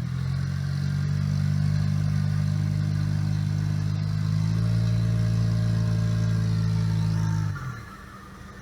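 Off-road all-terrain vehicle engine held at steady high revs, then dropping back sharply about seven and a half seconds in.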